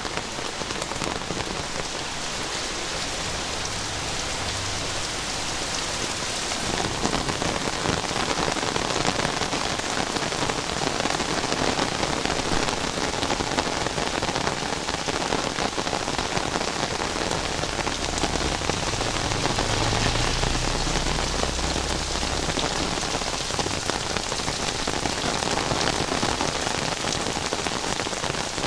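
Heavy rain pouring steadily on surfaces, a dense even hiss that grows somewhat louder after about seven seconds.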